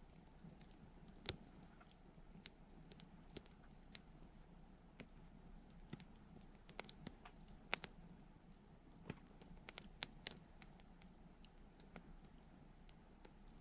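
Wood campfire crackling: irregular sharp pops and snaps over a faint, steady low rumble, with louder pops about a second in, near eight seconds and twice around ten seconds.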